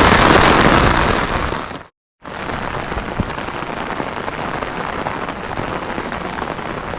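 Heavy monsoon rain pouring, loud and close at first and fading out just before a brief break about two seconds in, then a steadier, quieter downpour.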